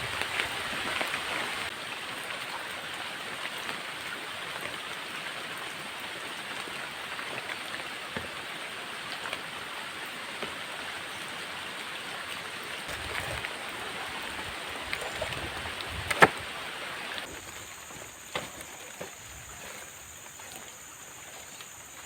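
Heavy rain falling in the forest, a steady hiss. A single sharp knock comes about 16 seconds in. About a second later the rain noise drops off suddenly, leaving a thin, steady high tone.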